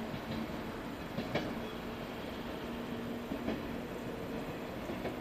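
JR West 105-series electric train, two sets coupled, running away along the track after departing: a steady rumble of wheels on rail with a few clicks as they pass over rail joints.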